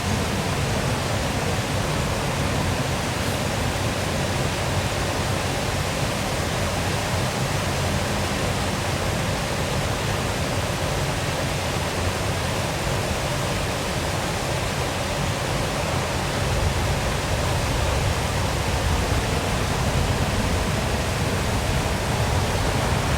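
Waterfall: water pouring steadily in a constant, even rush, heaviest in the low end.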